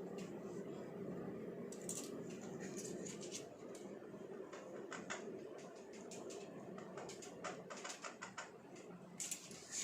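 A pet parrot making faint scattered clicks and soft short chirps, over a low room hum.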